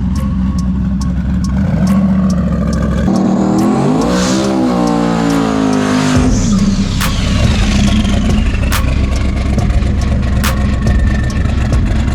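Drag race car engines running at a loud, steady idle, with one engine revving up and back down between about three and six seconds in. Scattered sharp ticks.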